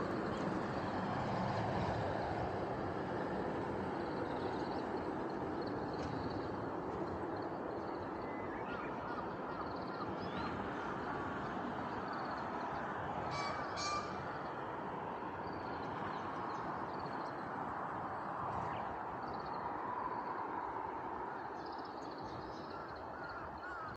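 A flock of crows cawing together in a dense, continuous chorus, with a few higher bird notes over it and two short clicks a little past halfway.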